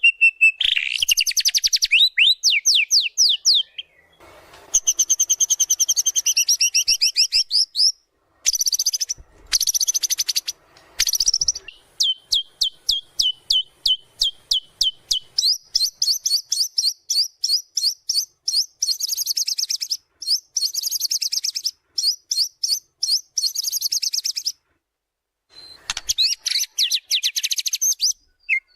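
White-rumped shama (murai batu) in full song: loud runs of rapidly repeated high notes and fast trills, changing phrase every few seconds, with short breaks between runs.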